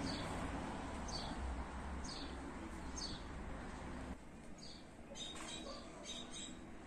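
A small bird chirping repeatedly, short falling high notes about once a second that come closer together in the second half. Under it, a low rumble that drops away about four seconds in.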